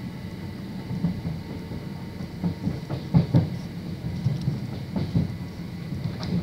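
Electric passenger train heard from inside the carriage: a steady running rumble with the wheels knocking and clattering over rail joints. The knocks bunch up about two and a half seconds in and the running grows louder from there.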